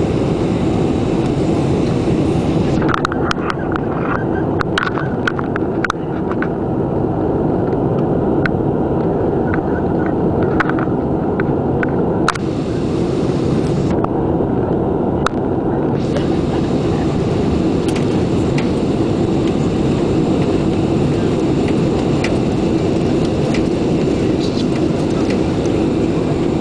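Airliner landing, heard as a steady loud rumble of engine and airflow noise inside the cabin. Scattered clicks and rattles come from about 3 to 16 seconds in.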